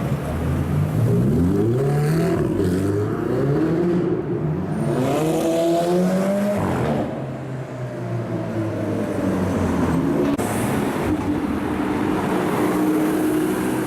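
Supercar engine accelerating hard, its pitch climbing in two long rising sweeps and dropping sharply about seven seconds in, then running at a steadier note.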